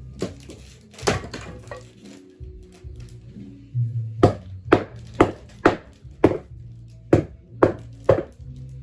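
Background music with a run of about eight sharp knocks, roughly two a second, starting about halfway through, after a single knock near the start.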